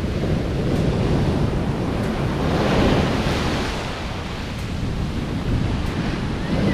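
Large sea waves breaking on a beach, one wave crashing and hissing up about three seconds in, with wind buffeting the microphone.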